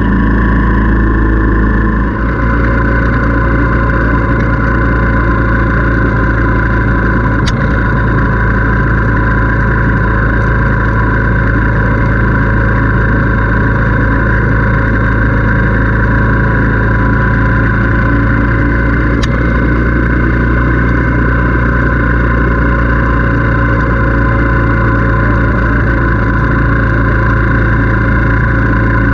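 Motorcycle engine running at a steady speed while riding, a constant drone mixed with wind rumble on the microphone.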